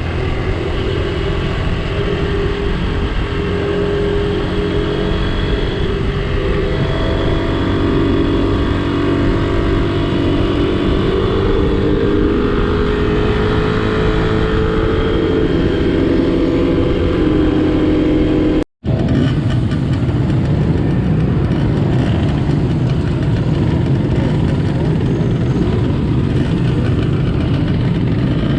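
Small vintage Honda motorcycle engine running under way, its pitch drifting up and down with the throttle, over the rush of wind. The sound cuts out for an instant about two-thirds of the way through, then carries on.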